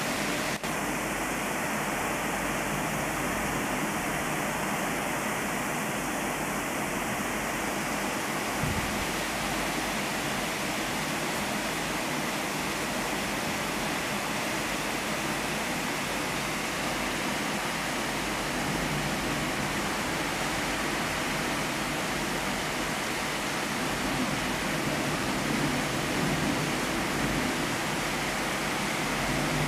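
Heavy rain falling steadily, an even hiss with no letup. A brief low thump about nine seconds in.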